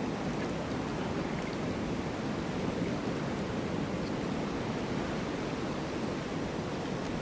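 Snowstorm wind blowing as a steady, even rushing noise with no gusts or breaks.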